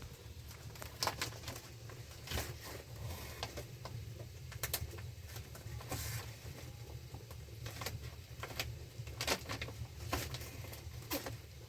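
Plastic bags crinkling and crackling in short, irregular bursts as they are handled and sewn together, over a steady low hum.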